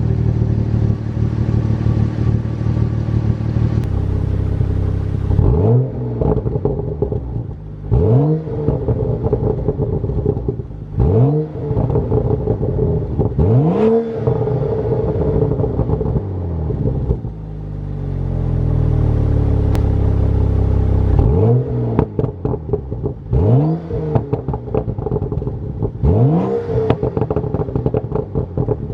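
BMW 335i's tuned turbocharged straight-six, with a muffler delete and the catalytic converter kept, idling and then revved about eight times. Each rev climbs and drops back with a quick run of crackles and pops from the exhaust: the burbles set up in the bootmod3 tune.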